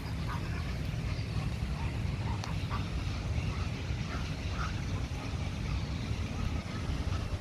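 A steady low rumble with faint short bird calls scattered through it.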